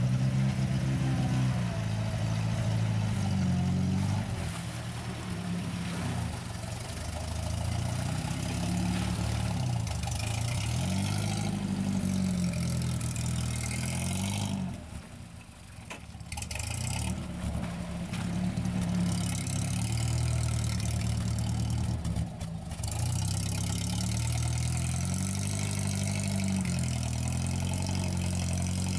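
UAZ off-road vehicle's engine revving, its pitch climbing and falling again and again as it works. It drops briefly about halfway through.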